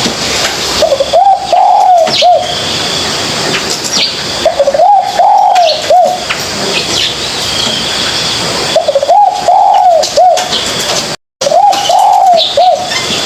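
Spotted dove cooing: four phrases, each a short run of soft, arched coos, repeated about every three to four seconds, with faint higher chirps from other birds behind.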